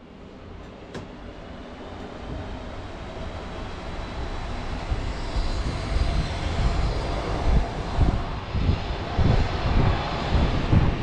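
A train pulling away through a station, heard from the carriage window: its running noise and low rumble build steadily as it gathers speed, becoming louder and uneven near the end.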